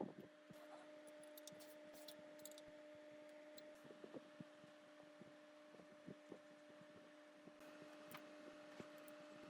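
Near silence: a faint steady hum with scattered light clicks.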